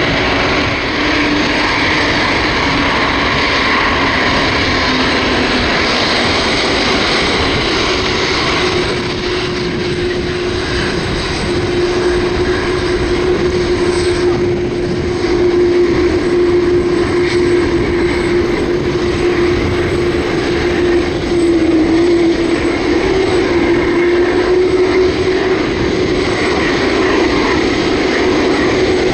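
Boeing 747-8F's four GEnx-2B turbofan engines running: a steady jet noise with a held mid-pitched tone that grows slightly louder after the middle.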